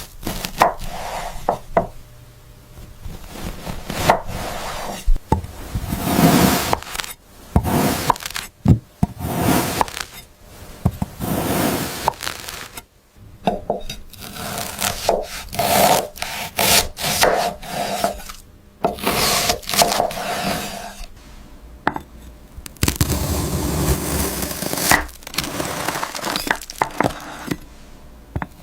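Cutting sounds: a blade sawing and scraping in irregular strokes, with sharp taps and clicks between them.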